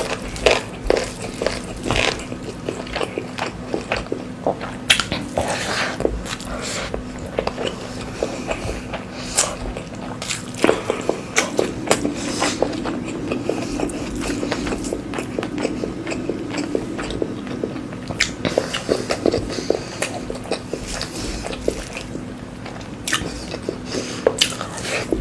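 Close-miked eating: repeated bites and chewing, with many short, irregular crunches and clicks.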